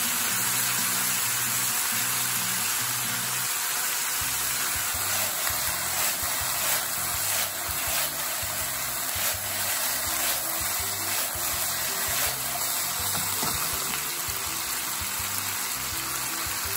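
Sliced lotus root sizzling steadily in sesame oil in a hot frying pan as soy sauce is added and the pan is tossed, with a few light knocks in the middle stretch. Background music plays underneath.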